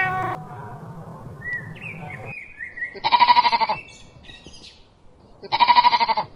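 A goat bleating twice: two loud, wavering calls, each just under a second long, about two and a half seconds apart.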